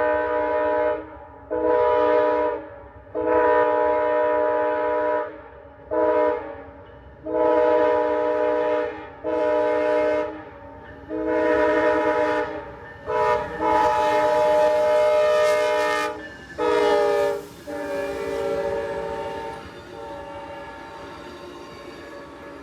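Amtrak diesel passenger locomotive's multi-chime horn blowing about ten blasts, long and short, loud; near the end the horn's pitch drops as the locomotive passes, and the train rolls by with a rumble.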